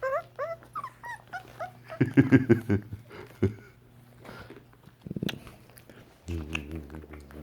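Young puppies whimpering: a quick run of short, rising high-pitched whines in the first two seconds, then a louder rough burst of puppy growling and yapping, with a few scattered clicks.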